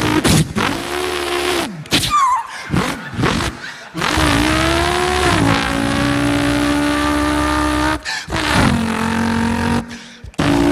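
A man's mouth imitation of a race car engine: revving notes that glide up and drop as if shifting gear, then held high, broken off abruptly several times.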